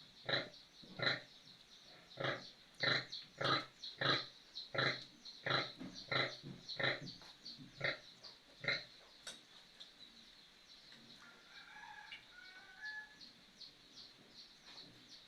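Pig grunting in a steady series of short grunts, about three every two seconds, which stop about nine seconds in. Faint bird chirps follow.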